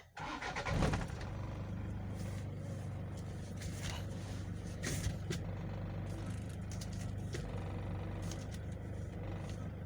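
Toyota Innova engine starting and settling into a steady idle, its power steering freshly refilled with ATF.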